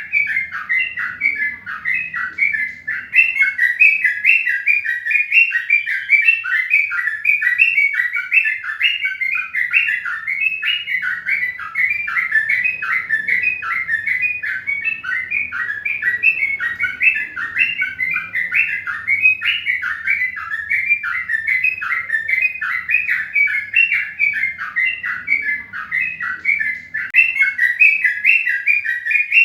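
Many small birds chirping together without a break, their short calls overlapping densely.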